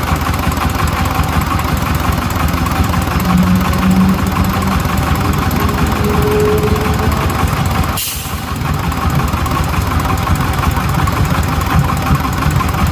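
Sifang power tiller's single-cylinder diesel engine running steadily at idle, with one brief sharp click about eight seconds in.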